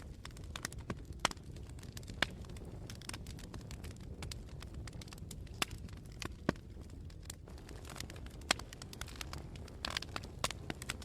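Campfire burning: irregular sharp crackles and pops from the burning wood, a few standing out loudly, over a low steady rumble of flames and wind.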